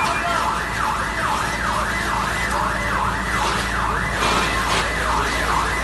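Emergency vehicle siren in a fast yelp, its pitch sweeping up and down about twice a second, over a steady low rumble.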